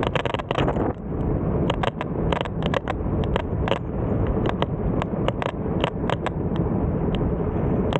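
Wind rushing over the microphone of a camera riding on a moving bike, a dense low rumble, with many short, irregular clicks and rattles.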